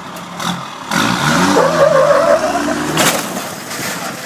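A vehicle engine revving hard with tyres squealing as it yanks on a chain, starting about a second in, with a sharp crack about three seconds in.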